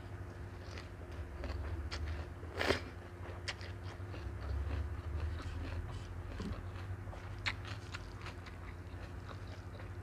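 Close-miked chewing of a mouthful of seafood noodle salad with lettuce: wet, crisp crunches scattered throughout, one louder crunch about two and a half seconds in, over a steady low hum.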